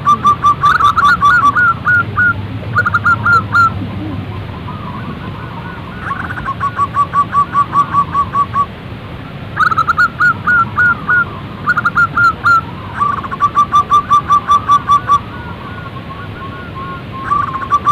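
Zebra dove song: repeated phrases of quick staccato cooing notes, each phrase opening with a few rising notes and running into a fast even trill. The phrases come about every three to four seconds with short pauses between, over a steady background hiss.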